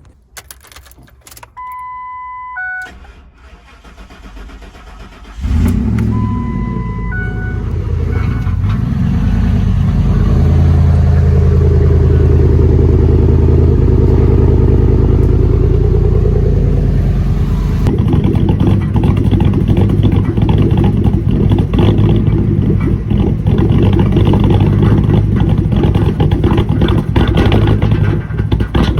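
Ford 4.6 V8 truck engine, jump-started on a dead battery. Short electronic beeps come first, then the engine starts about five seconds in and runs steadily. The owner says it is running really bad. About two-thirds of the way through, the sound turns noisier and more uneven.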